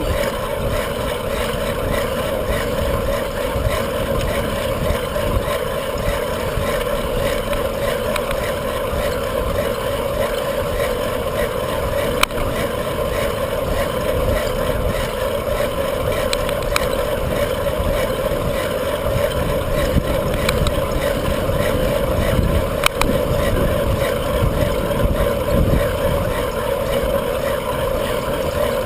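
Wind rushing over the microphone of a bicycle rider's camera during a ride, a steady gusty rumble with a constant hum running under it, and a faint click twice.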